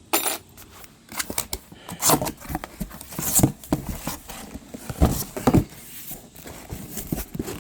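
Cardboard box and packaging being handled and pulled open: irregular rustling and crackling with scattered knocks.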